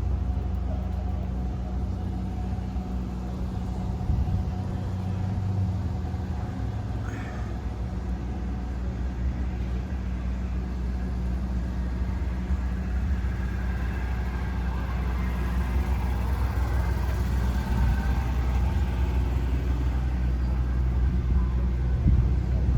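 A vehicle engine idling steadily, a deep, even rumble, with people talking faintly in the background.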